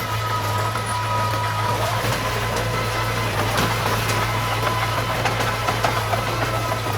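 Diesel engine of heavy earthmoving equipment running steadily at low revs, a constant low hum with a faint steady whine above it.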